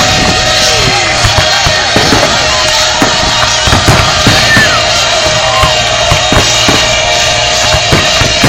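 Firework display going off: many irregular loud bangs and cracks with short whistling glides, over music playing.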